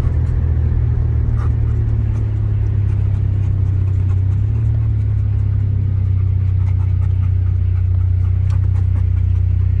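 A steady, loud low rumble with faint scattered ticks over it.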